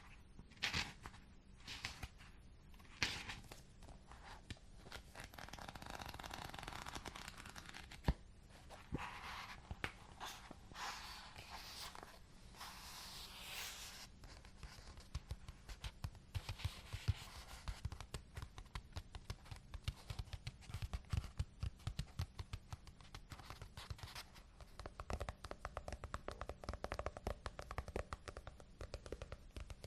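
Close-miked ASMR handling sounds. In the first half there are rustling, crinkling sweeps with one sharp click about 8 seconds in; from about 15 seconds on they give way to rapid light tapping and clicking.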